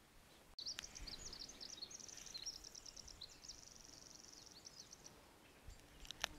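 A small songbird singing faintly: a string of quick high chirps and a fast even trill, starting about half a second in and stopping around five seconds in. A sharp click comes near the end.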